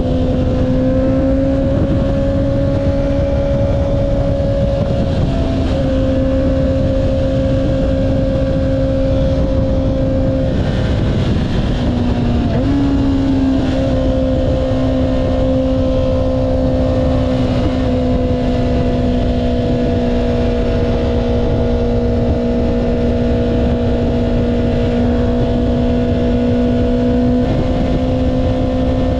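Honda CBR650R's inline-four engine with an Akrapovic exhaust, running at a steady engine speed while riding, over a low rush of wind noise. The engine note dips briefly and picks up again about twelve seconds in, and shifts slightly a few other times.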